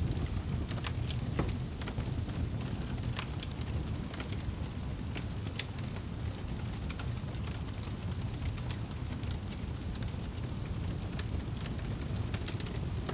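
Wood fire crackling in a fireplace: many scattered sharp pops and snaps over a steady low rumble of the flames.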